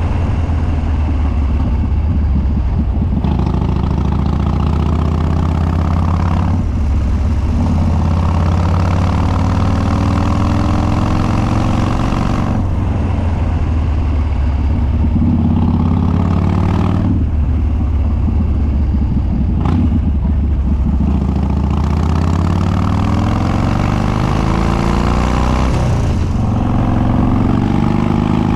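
Harley-Davidson Dyna Street Bob's Twin Cam V-twin through unbaffled upswept dual exhausts, with Stage 2 cams and an open air filter, under way: the engine note climbs in pitch for a few seconds, breaks off and starts again lower, over and over as the rider accelerates, shifts up and rolls off the throttle.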